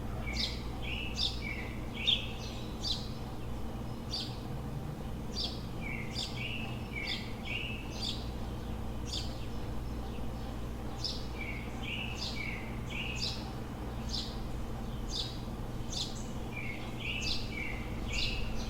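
Songbirds chirping repeatedly at dawn, sharp high chirps a few times a second with small groups of lower notes now and then, over a steady low rumble of city background noise.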